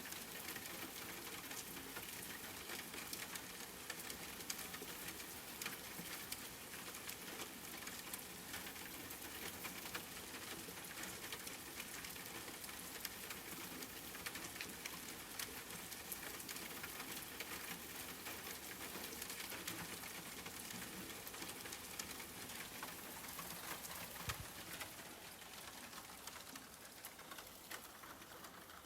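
Steady rain, falling as a dense hiss with many individual drops pattering, easing a little in the last few seconds.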